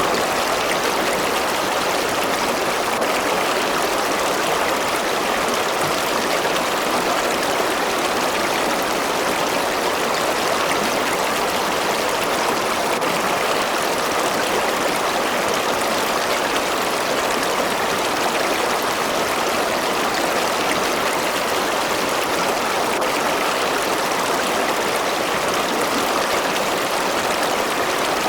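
River water flowing over rocks: a steady rushing and burbling.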